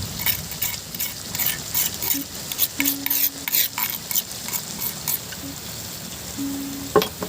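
A utensil scraping and stirring through fish frying in a pan of hot oil, with quick strokes over a steady sizzle that thin out after about five seconds. A sharp knock comes near the end.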